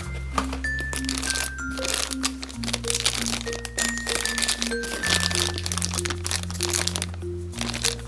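Background music with held bass chords and a short repeating melody, with the crinkling and crackling of plastic packaging being handled over it throughout.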